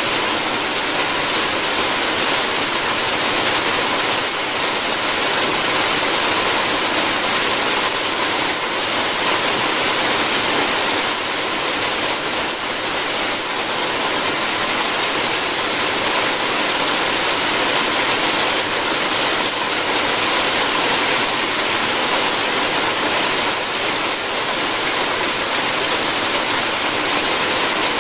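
Steady heavy rain falling on a roof, a dense even hiss with no pauses.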